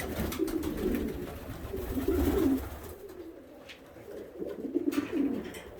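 Domestic pigeons cooing in a loft: several low, throaty coos in overlapping groups, with a few faint clicks.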